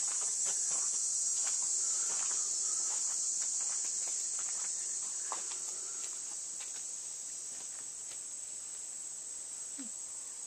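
Steady, high-pitched chorus of crickets and other insects, with a few faint clicks.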